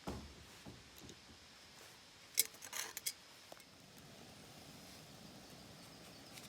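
Camp gear being handled: a dull thump, then a quick cluster of sharp clicks and clinks about two and a half seconds in, over faint steady background noise.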